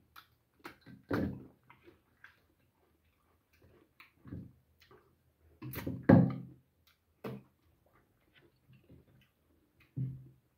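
Close-up eating sounds: wet chewing, lip smacks and sucking on boiled goat-head meat pulled apart by hand. They come as a string of short clicks and smacks, with louder ones about a second in, around six seconds in and near the end.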